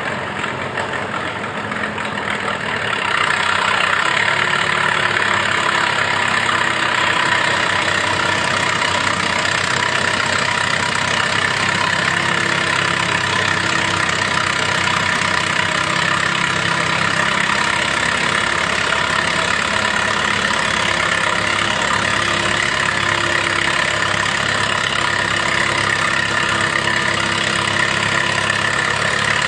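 Tractor engine running, getting louder about three seconds in and then holding steady.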